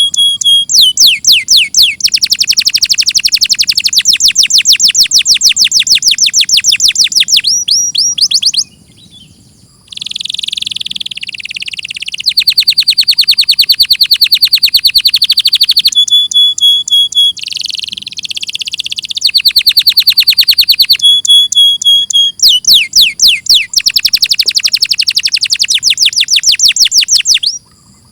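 Domestic canary singing: long loud phrases of rapid repeated high notes that sweep downward, rolling trills with short buzzy passages between them and brief pauses between phrases.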